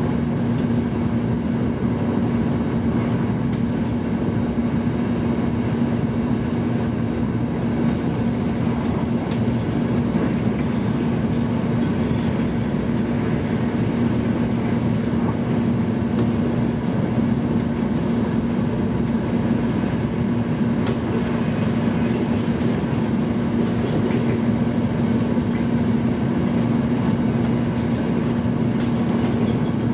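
Steady running noise of a high-speed train at speed, heard inside the passenger cabin: an even rushing sound with a constant low hum and a few faint clicks.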